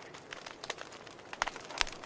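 Wood fire crackling in a fireplace: a faint steady hiss under irregular small snaps, with two louder pops about one and a half and just under two seconds in.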